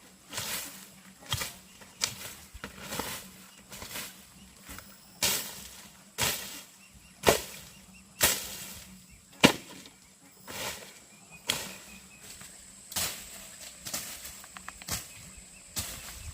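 A series of sharp chopping strikes, roughly one a second and uneven in strength.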